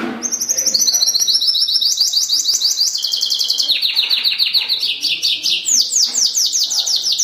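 Pintagol (hooded siskin × canary hybrid) singing a continuous, fast song of rapidly repeated downward-sweeping whistled notes, switching to a new note type every second or so.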